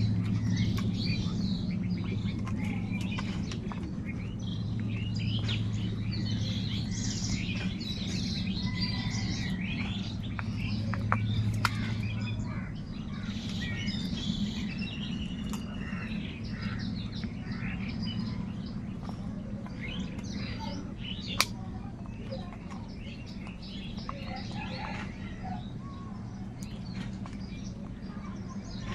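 Many small birds chirping and calling over each other in short, high notes, with a steady low hum underneath and a single sharp click about 21 seconds in.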